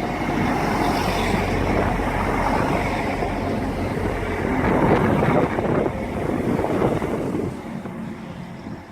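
Class 175 diesel multiple unit moving along the platform, a steady rumbling noise mixed with wind on the microphone, easing off about seven and a half seconds in.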